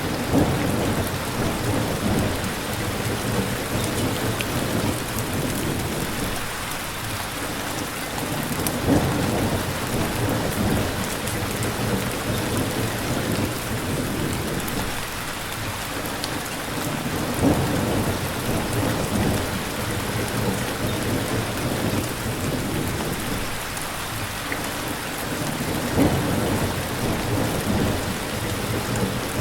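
Steady rain pattering, with a low rumble of thunder underneath that swells briefly about every eight and a half seconds.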